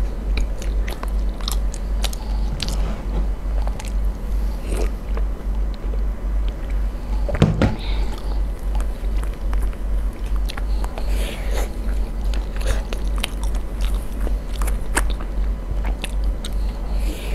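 Close-miked eating: chewing and biting soft, stringy cheese-topped food, with wet mouth clicks and a wooden spoon scraping and tapping a plastic tub. There is a louder knock about halfway through, and a low pulsing hum runs underneath.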